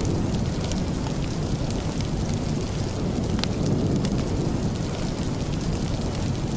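Steady rain mixed with a fireplace: a constant low rush with scattered sharp crackles and ticks.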